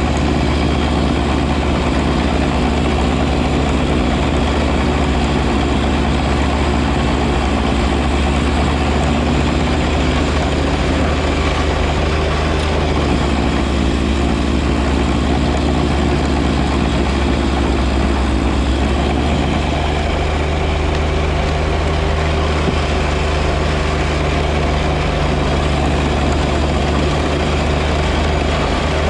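The John Deere 1025R compact tractor's three-cylinder diesel engine runs steadily at working speed, with a constant rushing noise over it. Its note shifts slightly twice, about a third and two thirds of the way through.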